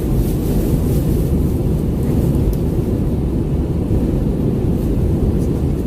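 Airbus A320 cabin noise in flight: a steady, loud low roar of the engines and airflow around the fuselage, heard from a seat by the wing.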